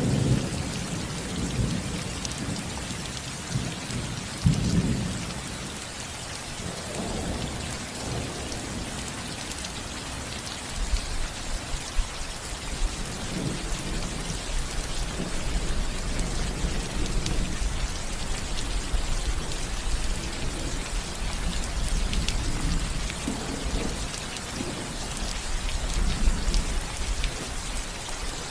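Steady rain pattering on a roof, with thunder rumbling underneath: a peal near the start and another about four to five seconds in, then a longer low rumble through the second half.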